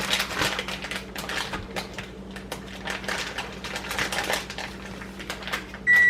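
Hot olive oil crackling and popping in a skillet as corn tortillas are dipped in it, a dense run of small irregular clicks. A loud electronic appliance beep starts right at the end.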